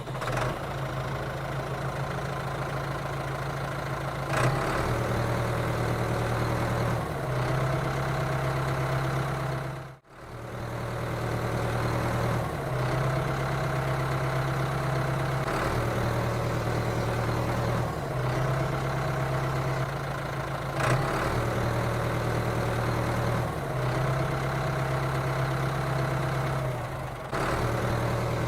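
Steady low motor hum, like an idling engine, its pitch stepping slightly up or down every few seconds. It cuts out briefly about ten seconds in.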